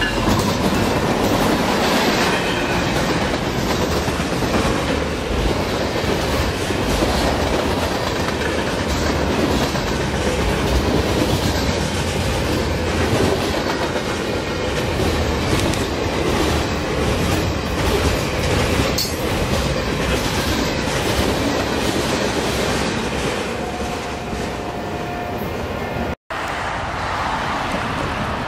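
Freight train of boxcars rolling past, a steady loud rumble with the wheels clicking over the rails. It eases off in the last few seconds and is broken by a brief dropout near the end.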